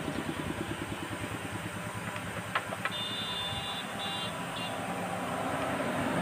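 A vehicle engine idling nearby with a fast, even low pulse. About two and a half seconds in come two sharp clicks, then a brief high-pitched tone.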